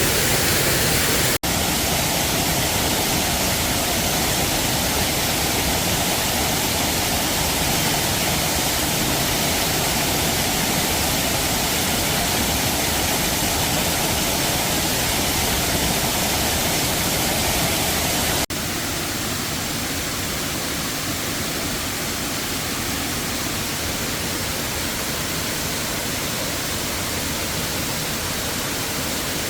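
Steady rushing of a waterfall, an even hiss across all pitches. It breaks off for an instant about a second and a half in and again after about eighteen seconds, and is a little quieter after the second break.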